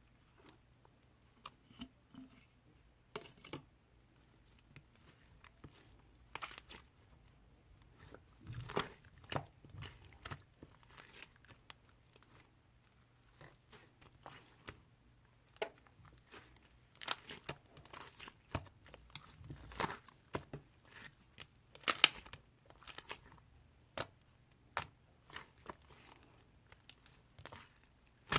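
Slime being squished and stretched by hand: irregular sticky pops and crackles, in a quiet small room.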